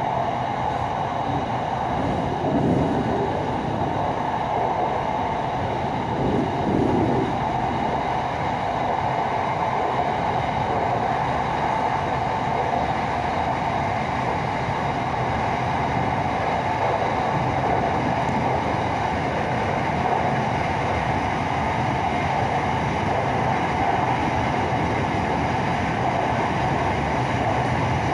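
Steady running noise heard from inside a carriage of an SRT Red Line electric commuter train (Hitachi AT100) cruising at speed on its elevated track: an even rumble and hiss, with two brief louder swells in the first several seconds.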